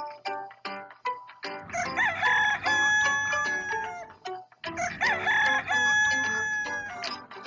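A rooster crowing twice, each crow long and held, following a few plucked notes of light background music.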